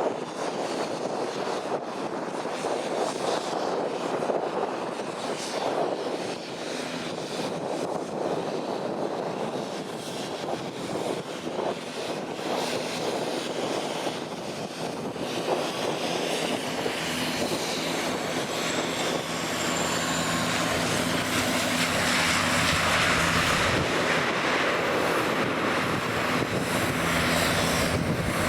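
Bombardier Dash 8 Q400 turboprop on approach: propeller and engine hum with a steady drone and a high whine, growing louder from about halfway through as the aircraft comes closer. Strong gusty wind buffets the microphone in the first half.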